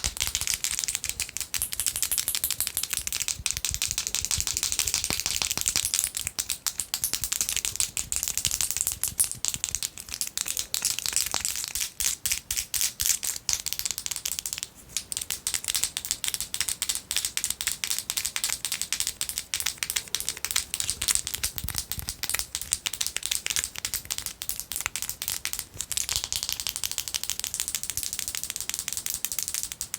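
Long fingernails tapping fast and hard on a gel polish bottle, a dense run of clicks with stretches of scratching hiss mixed in.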